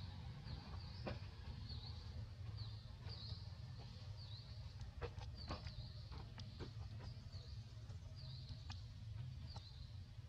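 Faint high chirps, each dipping and rising again in pitch, repeated every half second to a second: a small bird calling. A steady low rumble runs underneath, with a few light clicks about halfway through.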